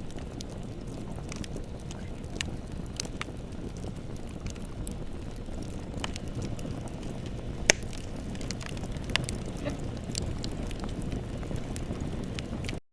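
Bonfire burning: a steady low rumble of flame with scattered crackles and pops of burning wood, the sharpest pop a little past halfway. The sound drops out for a moment just before the end.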